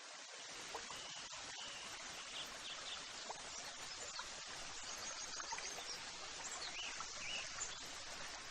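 Nature ambience: a steady rushing hiss, like running water or wind, with short bird chirps scattered through it and a quick run of high notes near the middle.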